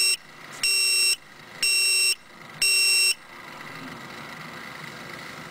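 Electronic warning buzzer of an exhaust gas temperature gauge beeping, three loud high-pitched beeps about a second apart. The beeping stops about three seconds in, leaving a steady running hum.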